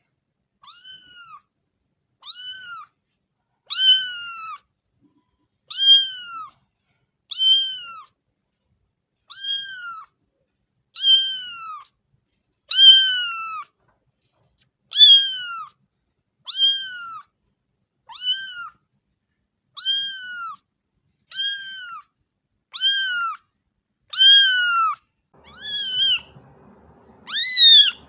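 A cat meowing over and over: short, high-pitched meows, each rising and falling in pitch, about one a second in a steady run. The last few, near the end, are louder.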